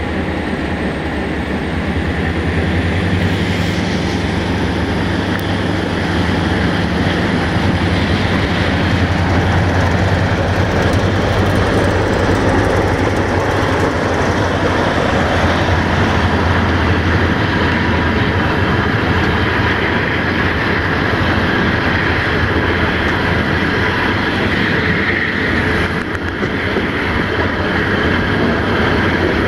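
Freight train wagons rolling past at close range: a steady, loud rumble and rattle of steel wheels on the rails.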